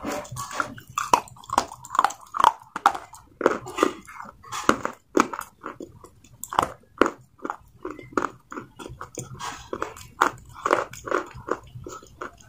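Mouth biting and chewing crunchy grey clay: an irregular run of sharp, crisp crunches, about two or three a second.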